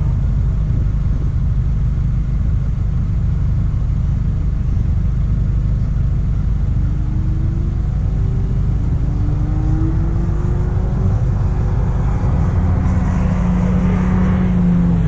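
Rallycross car driven hard: engine and drivetrain give a steady heavy low rumble, with the revs climbing in several rising sweeps midway and the engine note growing louder and steadier near the end.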